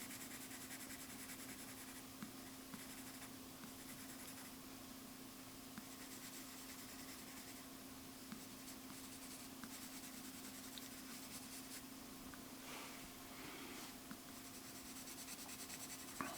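Faint scratching of a drawing tool on paper as an area is shaded darker, with a few small ticks, over a steady low hum.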